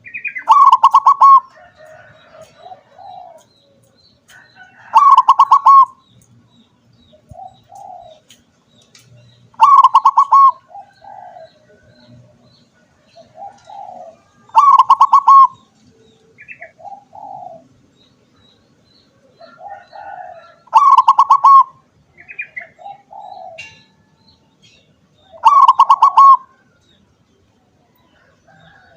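Perkutut (zebra dove) singing: its loud, rapidly pulsed cooing phrase repeats about every five seconds, six times, each followed by a few softer, lower coos.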